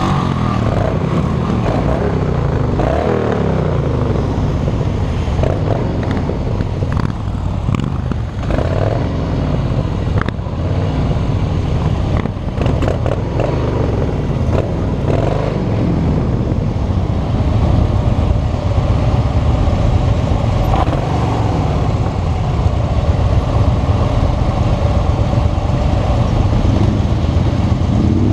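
Harley-Davidson V-twin motorcycle engine running on the road, its pitch rising and falling as the bike speeds up and changes gear in the first half, then holding steadier.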